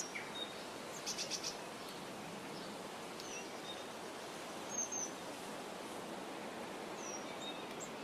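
Steady outdoor background noise with faint, high bird chirps scattered through it: a quick run of four about a second in, and short single falling notes later.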